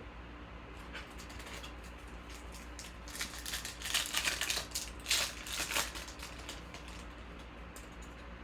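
Crinkling and rustling of a foil trading-card pack wrapper and cards being handled, in a cluster of sharp crackles a few seconds in, over a steady low hum.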